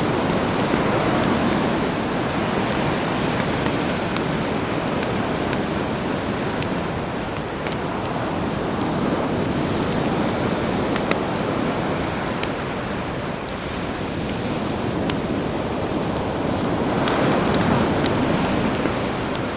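Campfire crackling with scattered sharp pops over the steady wash of sea waves, which swell and ease slowly, rising again near the end.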